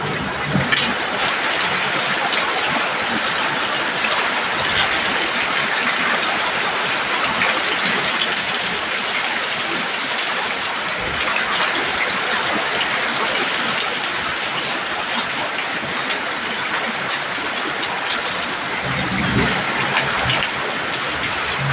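Heavy rain pouring steadily onto a roof, an even hiss of drops. There are a couple of brief low thuds, one just after the start and one about nineteen seconds in.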